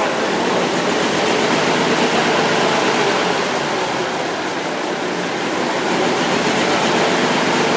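Gardner 6LW six-cylinder marine diesel engine running steadily, freshly overhauled with its idle not yet set up.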